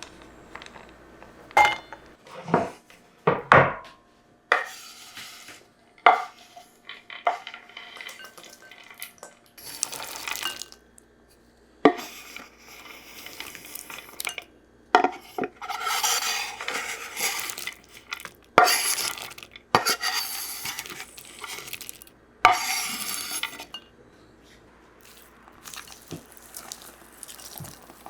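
Kitchen utensils and dishes clinking and knocking in a series of sharp strikes, with a few denser stretches of clattering and scraping about halfway through.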